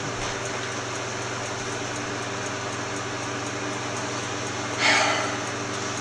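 A steady background hum, like a fan or appliance running. About five seconds in there is a short burst of noise.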